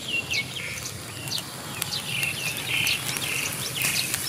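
Small birds calling over and over, short falling chirps about two a second. A few faint crackles join in near the end.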